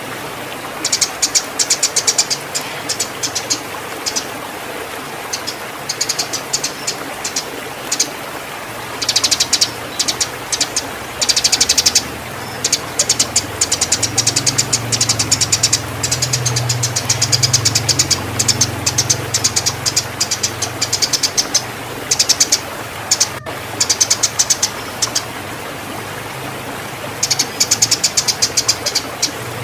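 Eurasian tree sparrows giving fast, excited chirping, the chatter of birds in breeding condition, in rapid runs of high chirps lasting one to several seconds with short gaps between. A low engine hum underneath grows louder in the middle and then fades.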